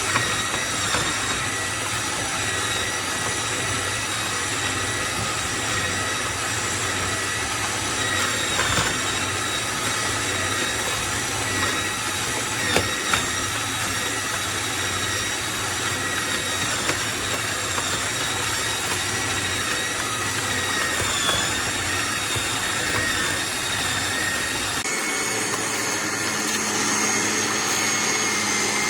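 AMZCHEF electric juicer's motor running steadily with a high whine over a mechanical hum as it juices, changing tone near the end.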